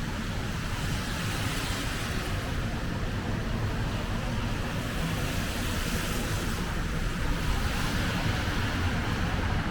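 City street traffic in a snowstorm: car tyres hissing over wet, slushy pavement, swelling as vehicles pass, over a steady low rumble.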